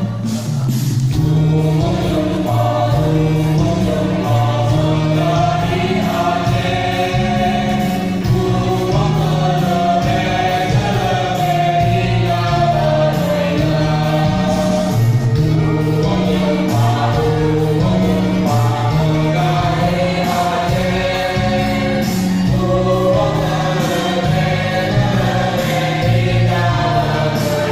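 A choir singing in parts, holding sustained chords that move in steps.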